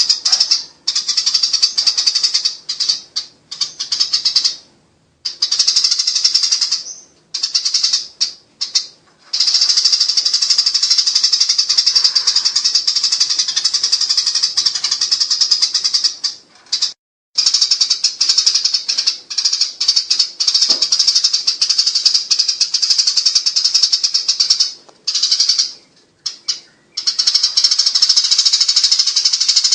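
Eurasian tree sparrows chattering in long, rapid, shrill trills: the agitated chatter of sparrows squabbling. The chatter breaks off in several short pauses.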